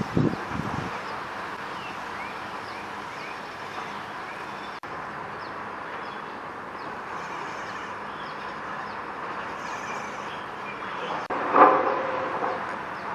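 Outdoor bird ambience: many short, high chirps from small birds repeat over a steady background hum, with a few low rumbles at the start and one louder, lower call about eleven and a half seconds in.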